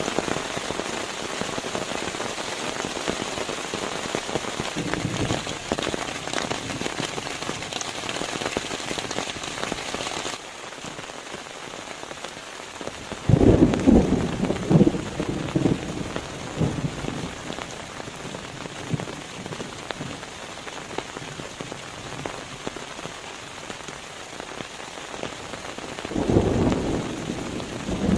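Steady hiss of rain falling. The higher part of the hiss drops away suddenly about ten seconds in, and two louder low bursts come through, one about 13 seconds in and one near the end.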